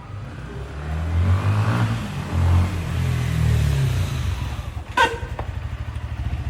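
Yamaha Exciter 155 motorcycle's single-cylinder engine rising in pitch as it accelerates, then dropping away as it slows. About five seconds in there is a short, sharp sound.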